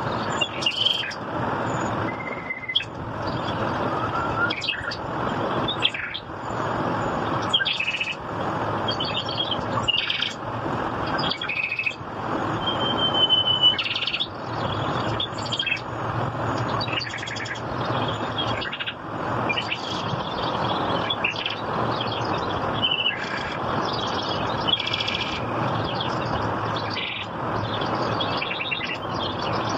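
Birds chirping in many short, scattered calls and whistles over a steady rushing background noise.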